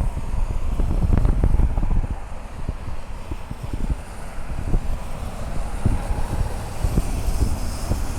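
Wind buffeting the camera microphone in uneven gusts, a low rumble that swells and fades, loudest about a second in.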